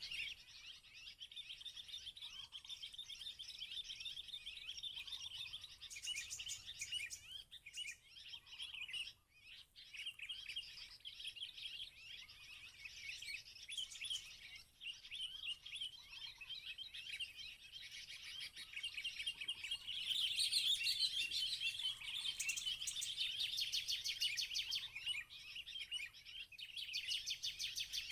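Bar-winged prinia (ciblek) calling: a rapid, high chattering trill repeated over and over, louder in the last third. Fainter, lower chirps come about every two seconds.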